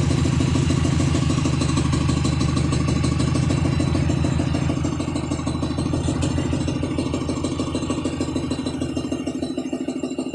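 An engine idling steadily with a fast, even pulse. It grows somewhat quieter in the second half.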